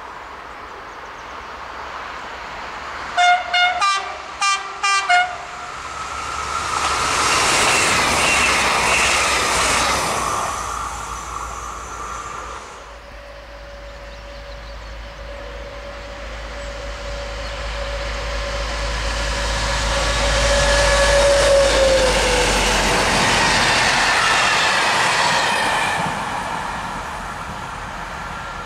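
A train horn sounded in a quick string of short blasts, then a train passing at speed. A second train approaches and passes, with a steady whine that drops in pitch as it goes by.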